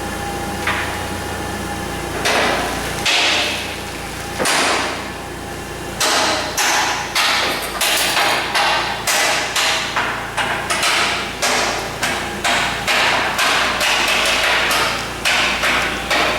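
Hammer blows on steel, a few strikes and then a steady run of about two to three a second from around six seconds in. A low hum runs under the first few seconds and then cuts off.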